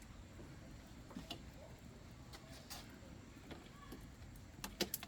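Faint scattered clicks and light knocks, with a quick run of three or four sharper clicks near the end.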